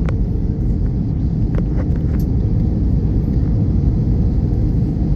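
Steady, loud low rumble inside the cabin of an Airbus A321 with IAE V2533 engines as it comes in to land, with a faint steady hum and a few light clicks from the cabin.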